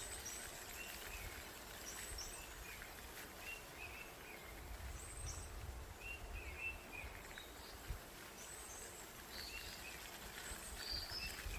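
Birds chirping: short, high notes repeated again and again, over a faint low background rumble.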